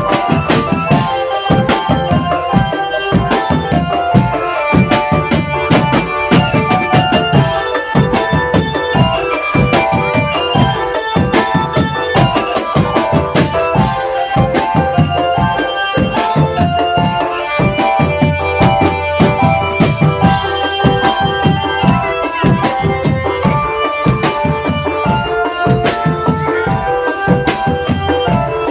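Marching drum band playing: drums beating a busy, steady rhythm under a melody of held, changing notes.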